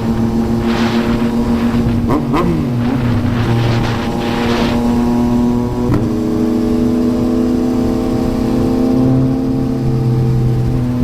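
Yamaha MT-09's inline-three engine running through a Yoshimura R11 exhaust, held at fairly steady revs while riding. Brief rushes of noise come and go in the first half.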